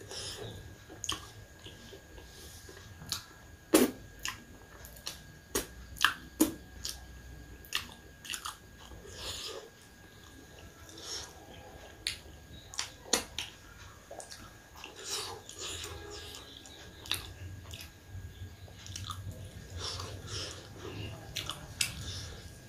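Close-miked chewing and biting: a person eating, with irregular wet mouth smacks and sharp clicks.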